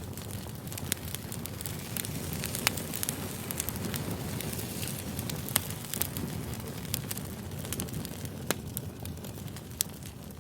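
Campfire crackling: a steady low rumble of burning wood with frequent sharp pops and snaps, beginning to fade near the end.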